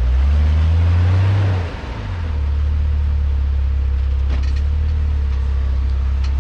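Off-road 4x4's engine revving up for about a second and a half, dropping off sharply, then running steadily at low revs, with a few faint clicks later on.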